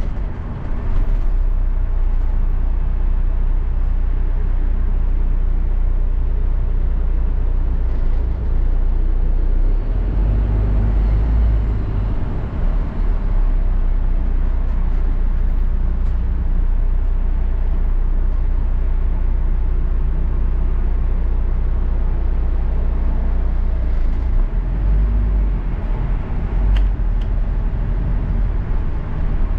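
Double-decker bus heard from on board while moving: a steady low engine and road rumble that swells twice, with a few faint rattles near the end.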